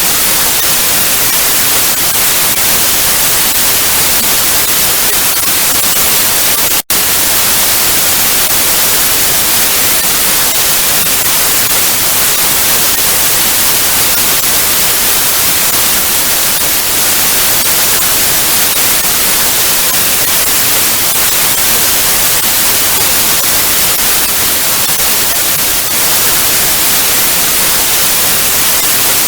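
Analog TV static: a loud, steady hiss of white noise, strongest in the highs. It drops out for an instant about seven seconds in.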